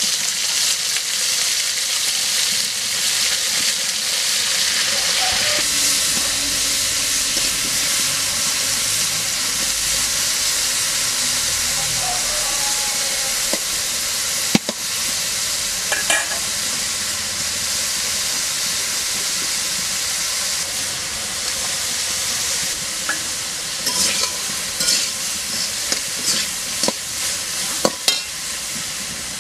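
Sliced bitter gourd sizzling steadily as it fries in oil in a metal kadai. A steel spatula scrapes and knocks against the pan now and then, a couple of times about halfway through and more often in the last few seconds.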